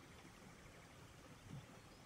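Very faint rain, close to silence: a low, even hiss with one soft low thud about one and a half seconds in.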